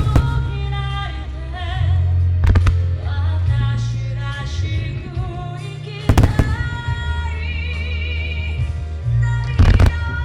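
Fireworks shells bursting with sharp bangs, four times (at the start, about two and a half seconds in, about six seconds in and near the end), over show music with a singing voice and a heavy bass line.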